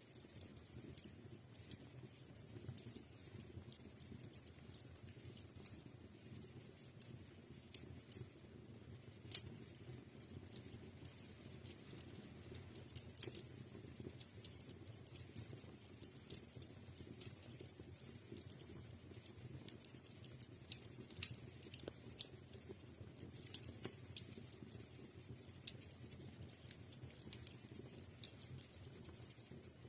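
Wood fire crackling in a fireplace: irregular small pops and snaps over a steady low rush of burning, with a couple of louder snaps about a third and two-thirds of the way through.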